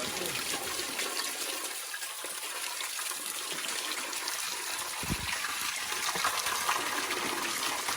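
Spring water running and splashing in a steady rush, with a dull thump about five seconds in.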